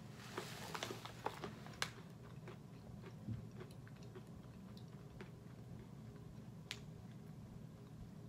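Faint chewing of roasted peanuts, scattered small crunches and mouth clicks. In the first second the plastic snack bag crinkles briefly as it is handled.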